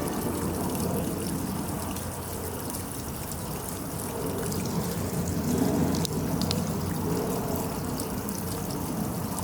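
Steady rushing noise like running or trickling water, with a few faint clicks about six seconds in.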